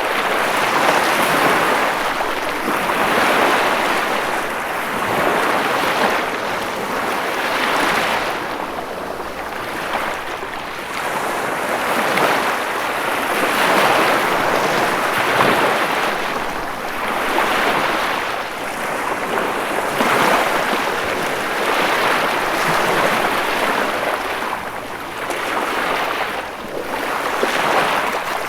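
Ocean surf washing ashore, a continuous rush of water that swells and fades every couple of seconds as the waves come in.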